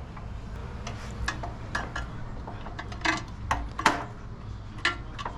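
Metal parts and tools clinking and tapping against each other as a part is worked into place on a garden tiller: a string of irregular sharp clicks, some with a short metallic ring, the loudest about four seconds in.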